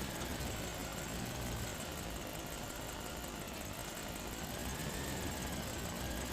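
Small vehicle motor running steadily, with a faint whine that slowly rises and falls.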